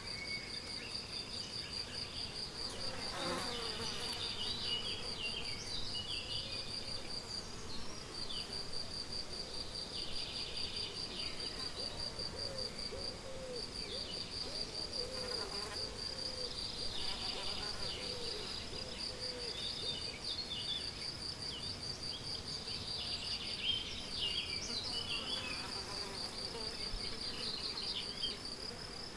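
A cricket chirps in a steady, fast-pulsed high trill that stops briefly a few times. Birds sing over it in scattered bursts of short chirps and quick falling notes.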